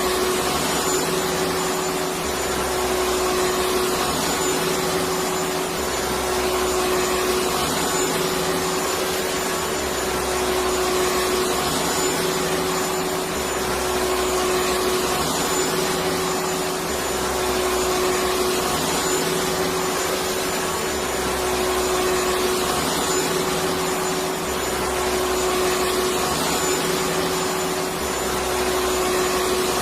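Electric vacuum cleaner running steadily: a continuous rushing motor noise with a steady hum, swelling slightly about every three seconds.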